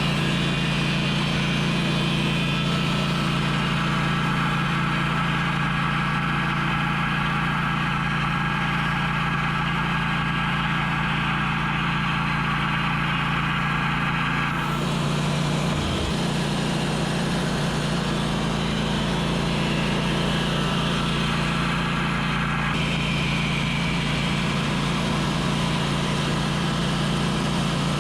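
Wood-Mizer portable sawmill's engine running steadily, with a constant low hum; the higher sound of the machine changes about halfway through and again about two-thirds of the way in.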